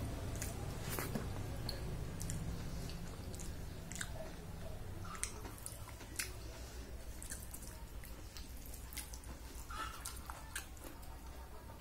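Close-up eating sounds of soft khichdi eaten by hand: wet chewing and smacking heard as scattered, irregular clicks and squelches, over a low steady hum.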